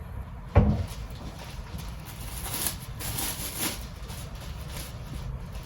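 Plastic wrap crinkling and rustling in irregular crackles as a ball of pasta dough is wrapped, after a single sharp thump about half a second in.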